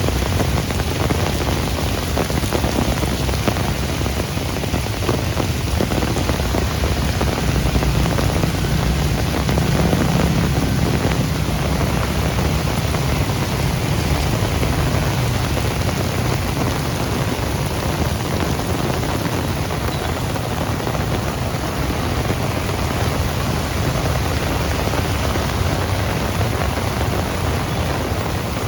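Heavy rain falling steadily, with a continuous low rumble underneath that swells slightly about a third of the way in.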